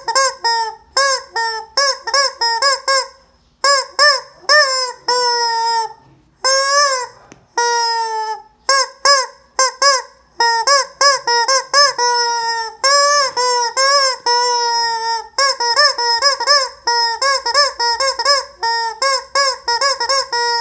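Rubber squeeze-toy chicken squawking over and over, about two to three loud honks a second, a few drawn out longer with the pitch sagging at the end.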